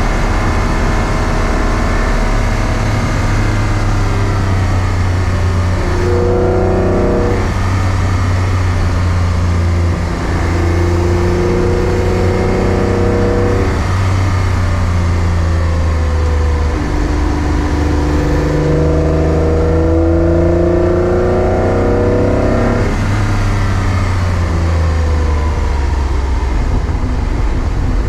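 A V6-swapped Toyota MR2 Spyder's engine pulling hard through the gears. The pitch climbs and then drops at each upshift, several times over.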